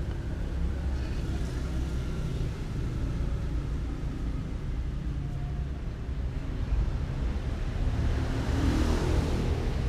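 Steady low rumble, with a broader rushing swell building about eight seconds in.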